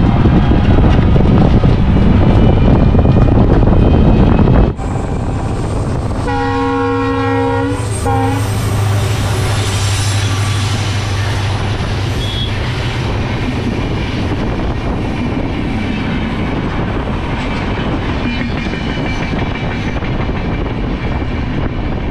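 Auto-rickshaw engine and road noise, then, after a cut, a train's horn sounds one long blast and a short one. A long passenger train follows, rumbling past alongside with its wheels clattering on the rails.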